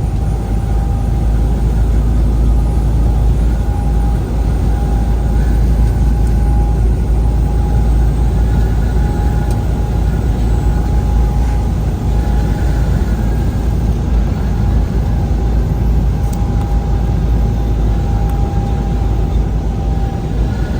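Vehicle driving steadily at road speed: a constant low engine and road rumble with a steady whine above it.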